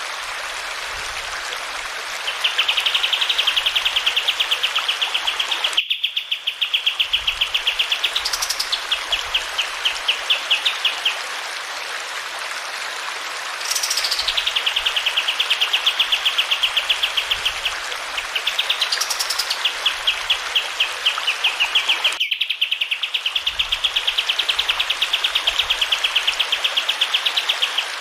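Kapas tembak songbird singing long, rapid rolling trills that run for several seconds each, broken by a few sharp rising notes, over the steady rush of running water. The recording cuts abruptly twice.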